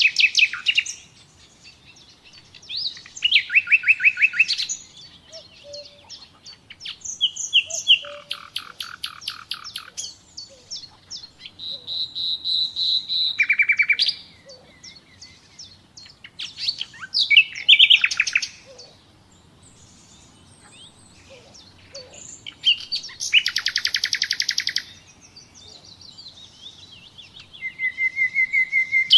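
Nightingale singing: about seven phrases of rapid, repeated notes and trills, some with held whistled notes, each a second or two long and split by short pauses.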